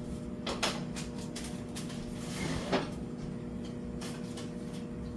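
Kitchen handling sounds over a steady appliance hum: a couple of soft knocks, about half a second in and again near the middle, with a brief hiss between them.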